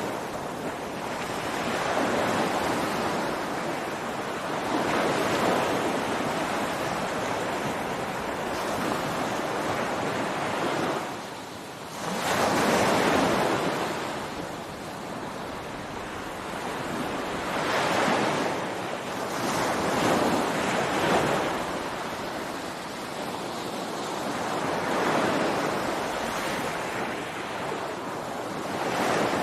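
Ocean waves breaking and washing up a beach, each surge swelling and ebbing every few seconds, the biggest one breaking about twelve seconds in. Light wind noise on the microphone.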